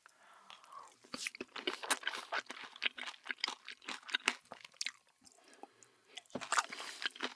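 Close-up crunching and chewing of crisp salad vegetables, dense crackly bites with a short lull near the middle before the crunching resumes.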